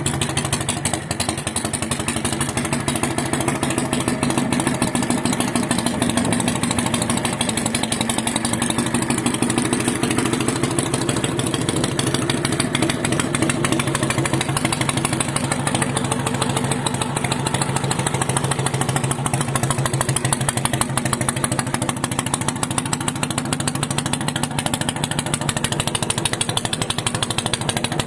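Dnepr MT-16 motorcycle's flat-twin engine running steadily through a homemade exhaust made from water pipe, with a fast, even exhaust beat.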